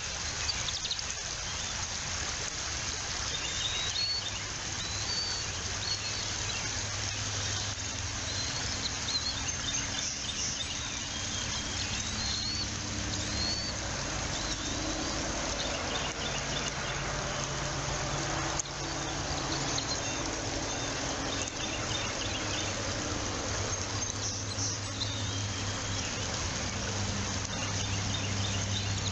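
Steady outdoor hiss with a low, unsteady hum underneath, and scattered short high bird chirps, a few at a time, throughout.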